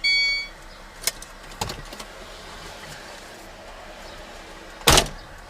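Steady road noise inside a moving car, with a short electronic beep at the start, a few light clicks between one and two seconds in, and one loud thump near the end.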